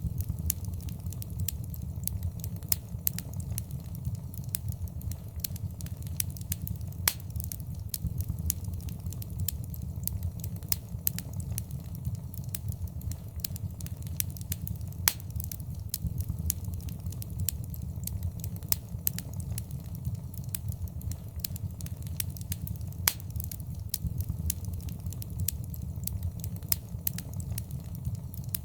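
Wood fire in a fireplace crackling and popping, with many sharp, irregular pops over a steady low rumble of the flames.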